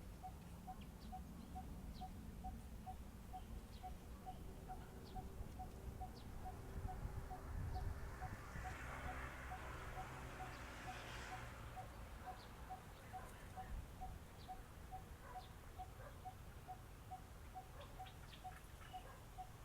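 A bird repeating one short, mid-pitched note, about two a second, on and on without a break. About eight seconds in, a hissing rush of noise swells up for a few seconds and fades away, under a low background rumble.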